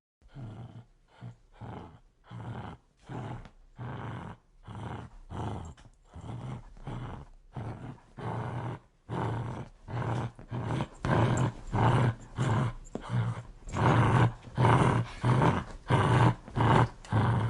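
Dog growling in a steady run of short repeated pulses, about one and a half a second, growing louder about halfway through.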